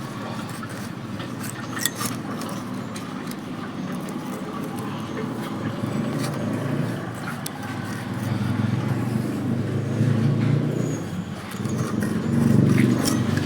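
An engine running steadily, getting louder in the second half, with a few sharp clicks over it.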